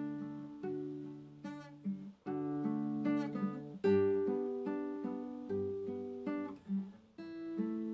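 Acoustic guitar playing slow, relaxing music: chords plucked and left to ring, a new chord every second or so.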